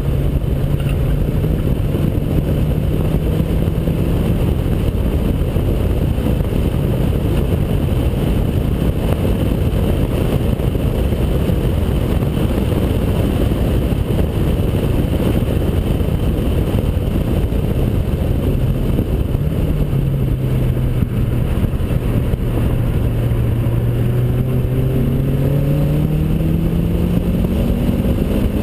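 Honda Accord Type S with a short-ram intake and a custom duplex exhaust, running hard on a race track, heard from a camera mounted outside the driver's window, so heavy wind buffeting covers much of it. The engine note holds steady at first. From about two-thirds of the way through it climbs steadily in pitch as the car accelerates up through the revs.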